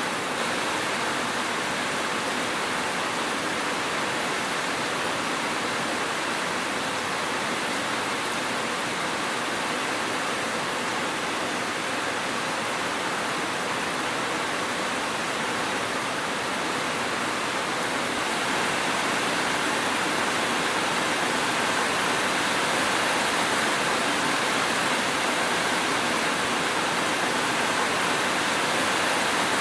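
Steady heavy rain, a dense, even hiss with no thunder or distinct drops, growing slightly louder about two-thirds of the way through.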